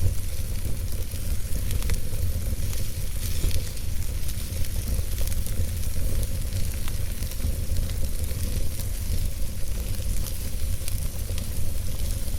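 Fire burning in a fireplace: a steady hiss full of small, quick crackles over a constant low rumble.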